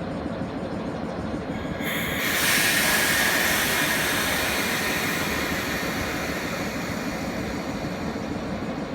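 EF63 electric locomotive with a steady low hum, then a loud hiss that sets in suddenly about two seconds in and fades slowly over several seconds.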